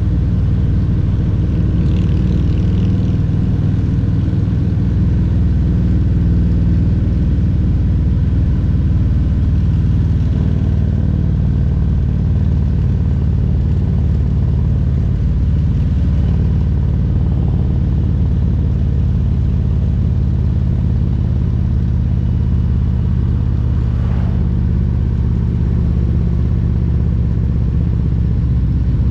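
Harley-Davidson Milwaukee-Eight 114 V-twin engine of a Road Glide Special running under way, a steady low rumble whose pitch shifts a little now and then as engine speed changes.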